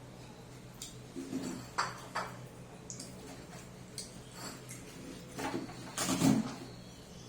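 Eating sounds close to the microphone: chewing of fried chicken, with a few sharp clicks and light knocks of a plate and food being handled, the loudest about two seconds in and again near the end.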